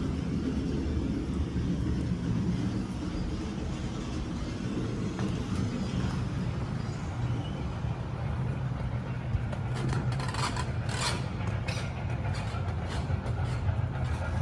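Steady low background rumble, with a short run of sharp clicks or knocks about ten to twelve seconds in.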